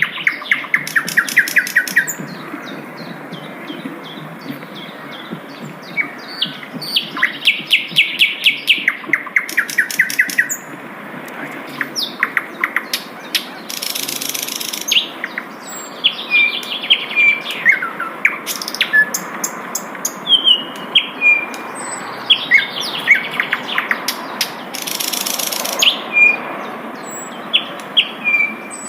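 Sikatan londo flycatcher singing: a varied song of fast trills of rapidly repeated notes, sharp slurred whistles and short buzzy phrases, with brief pauses between phrases.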